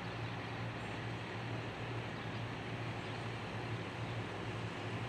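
Engine running steadily: a constant low hum with an even hiss over it.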